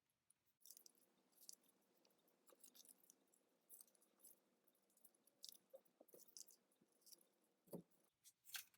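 Faint crackling and crinkling of a sheet of origami paper being folded and creased by hand: scattered soft ticks and rustles, with a couple of slightly louder crackles near the end.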